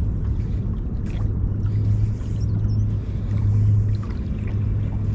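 Boat motor running with a steady low hum, holding an even level throughout.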